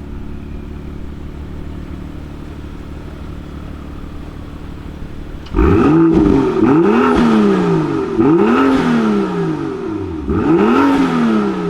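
BMW car engine idling steadily, then revved hard about four times in a row from about halfway in, each rev climbing and falling back in pitch.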